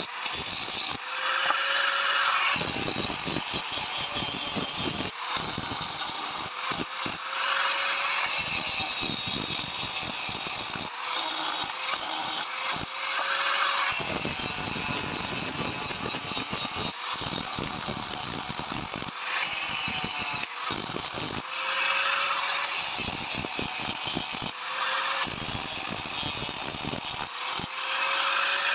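Electric power tool working metal, run in repeated bursts of a few seconds with short pauses between, its motor pitch rising each time it restarts.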